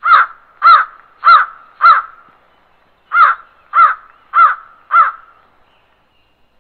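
Crow cawing: eight caws in two runs of four, about half a second apart, with a pause of about a second between the runs.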